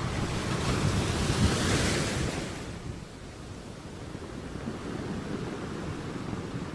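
Sea surf on a shore. A wave swells up and washes in, loudest about one to two seconds in, then falls away, leaving a lower, steady rush of surf.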